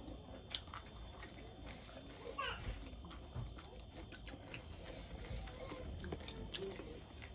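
Close-up eating sounds: chewing with scattered small clicks and crackles, and a brief squeak about two and a half seconds in.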